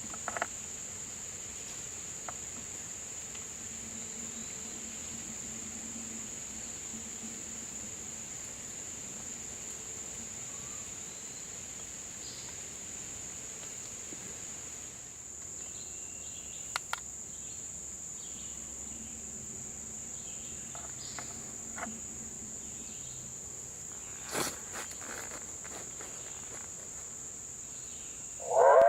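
Insects, crickets by the sound, trilling steadily in one continuous high-pitched band, with a few brief clicks or knocks, the loudest about three-quarters of the way through.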